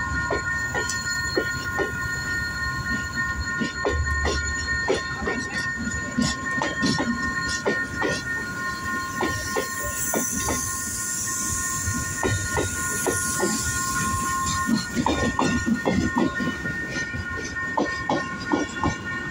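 Work train hauled by a GT22CW-2 diesel locomotive rolling slowly past. Low engine rumble and irregular clicking of wagon wheels over rail joints, the clicks coming thicker near the end, over a steady high-pitched wheel squeal.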